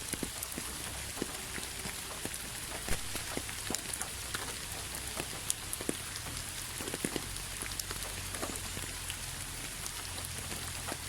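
Rain falling steadily: a constant hiss with many scattered sharper drops hitting a surface.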